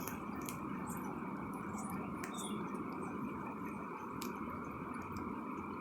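Steady hiss of water falling on a phone in a rain test, with scattered taps of drops.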